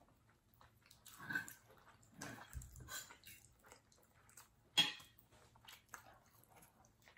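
Close-miked eating sounds: chewing and wet mouth noises as salmon and asparagus are eaten, with scattered light clicks. The loudest is a sharp click a little before 5 s.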